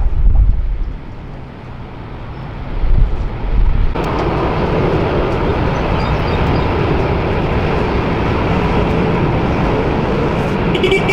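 Wind buffeting the microphone over a low rumble, then an abrupt change about four seconds in to a steady, loud roar of jet airliner engines.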